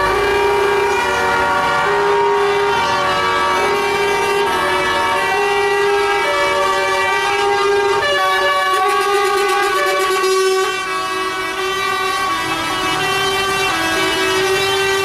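Many truck air horns blaring together and without a break, several pitches overlapping and shifting every second or so.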